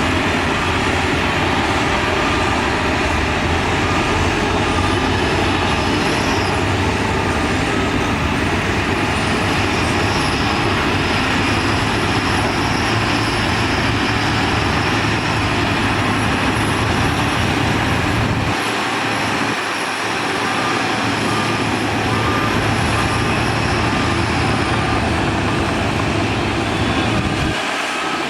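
Heavy diesel earthmoving machinery, a bulldozer and dump trucks, running steadily under work, with a faint high wavering whine above the engine noise. The low rumble drops away briefly about two-thirds of the way through and again near the end.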